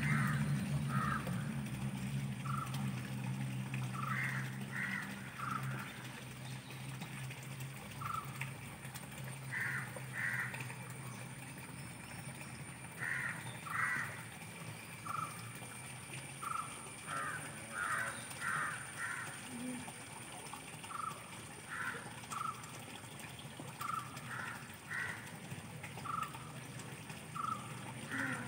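Birds calling in the background, short calls often in twos or threes, repeating every second or two.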